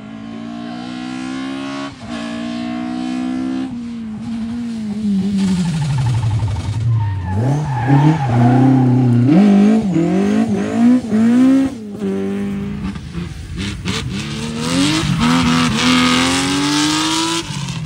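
Rally car engine revved hard, its pitch climbing through gears, dropping away, then blipped rapidly up and down, loudest about halfway through, with tyre noise underneath.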